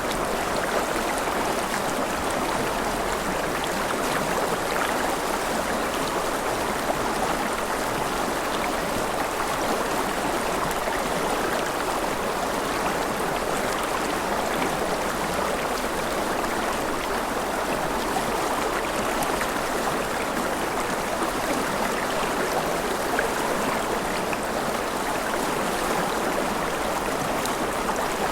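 A river flowing over rocks, a steady, even rush of water with no change through the stretch.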